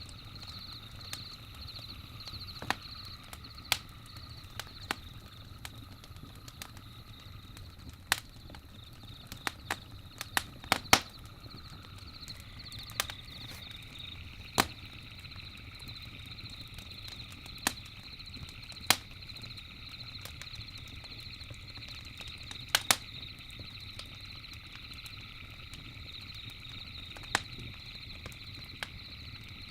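Campfire crackling: sharp irregular pops over a low steady rumble, with a quick cluster of louder pops about ten to eleven seconds in. A steady high chirring runs behind it and thickens about twelve seconds in.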